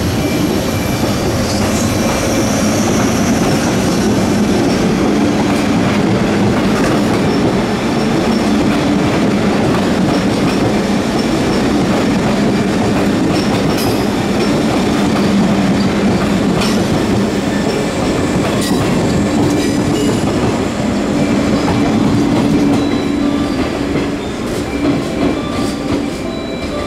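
JR 381 series electric train running in along the platform: steady running noise with wheels clicking over rail joints and brief high wheel squeals, easing off a little near the end.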